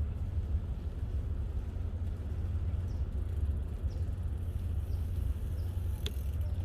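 Steady low rumble of wind buffeting the microphone on a moving bicycle, with one sharp click about six seconds in.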